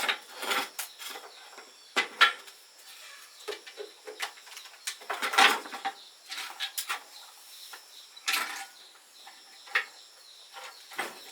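Irregular clicks, clinks and short scrapes of hand work on motorcycle parts, at uneven intervals with no running engine.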